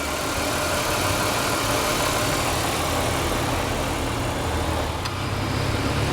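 A 2003 Chrysler 300M Special's 3.5-litre 24-valve V6 running steadily at low speed: a low drone with an even hiss over it.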